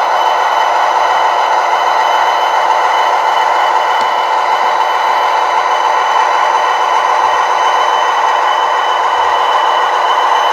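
OO-scale model locomotive, steady mechanical engine sound with a hum and little bass, unchanging throughout.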